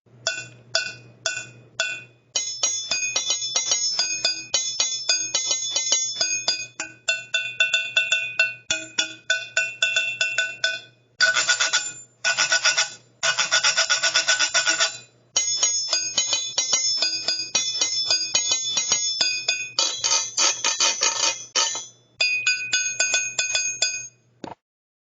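Metal cans struck rapidly as percussion, giving ringing, bell-like clinks at several pitches. Some cans are tuned with water. The playing starts as a few separate strikes and speeds into a steady patter, with two stretches of dense, fast rolls, one in the middle and one near the end. A steady low hum runs underneath.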